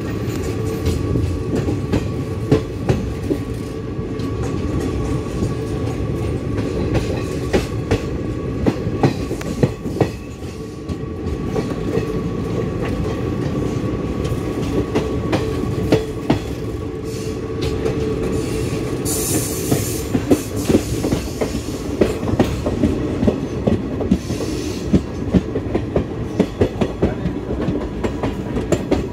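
Passenger train running along the track, heard from aboard a coach: a steady rumble with the wheels clacking irregularly over rail joints. The clacks come thicker near the end.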